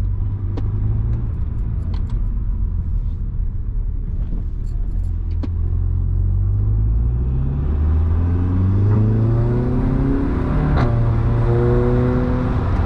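Seat Leon Cupra 300's turbocharged 2.0-litre four-cylinder, breathing through an induction kit and a resonator-deleted exhaust, runs at a steady low drone. From about seven seconds in it accelerates with a rising pitch, breaks briefly about eleven seconds in, then holds a higher, steady note.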